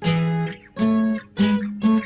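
Background music: a solo acoustic guitar instrumental, four chords struck in turn, each ringing out and fading before the next.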